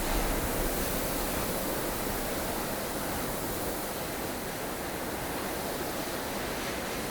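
Snowstorm wind blowing strongly as a steady, even rush of noise, with a brief low gust swelling near the start.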